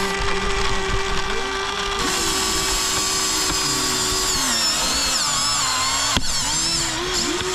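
Small electric motors of a Huina 1593 1:16 RC excavator whining as it works, the pitch dipping and climbing back again and again as the controls are moved. There is one sharp click about six seconds in.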